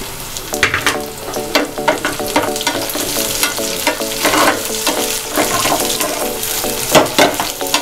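Chopped onion and green chillies sizzling in hot ghee in an aluminium pan, with a steel ladle stirring and scraping from about half a second in. The ladle strikes the pan again and again with short metallic knocks.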